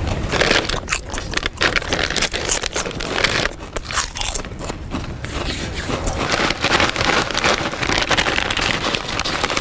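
A person chewing and crunching food loudly and with the mouth open, a dense run of irregular crackling, smacking noises close to the microphone.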